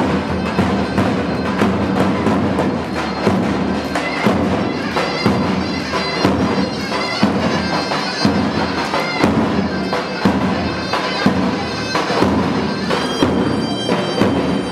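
Davul and zurna playing loud folk dance music: a shrill reed pipe held over a steady bass-drum beat.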